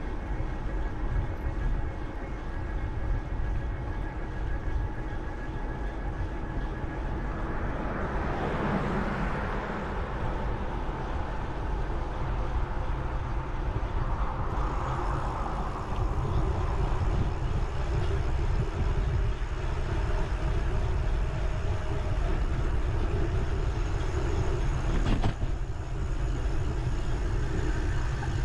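Bicycle ride heard through a bike-mounted action camera: steady wind rumble on the microphone with rolling tyre and bike noise, and swells of louder hiss about eight seconds in and again around fifteen seconds.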